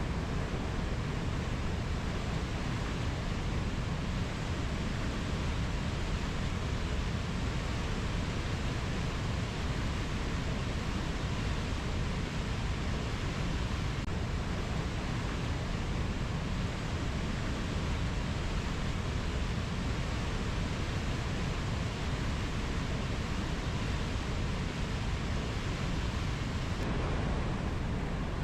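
Steady, unbroken rushing noise, heaviest in the low end, with no distinct calls, drips or strikes.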